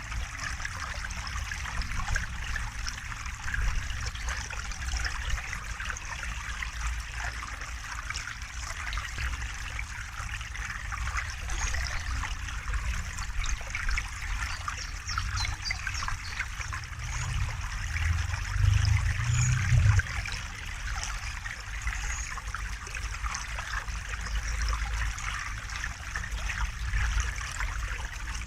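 River water flowing and trickling steadily. A deep low rumble swells for a couple of seconds about two-thirds of the way through.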